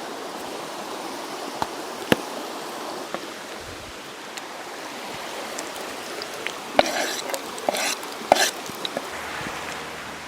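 Campfire cooking: a steady hiss with a few sharp clicks, and a handful of short clattering or scraping noises about seven to eight and a half seconds in.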